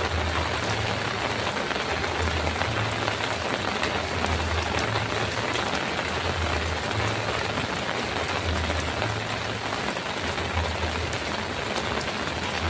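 Heavy rain falling steadily on a metal roof, with a low rumble underneath that swells and fades every second or so.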